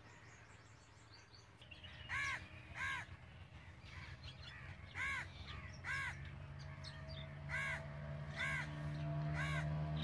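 A bird calls seven times, short calls that each rise and fall in pitch, several coming in pairs. A low steady hum grows louder under the later calls.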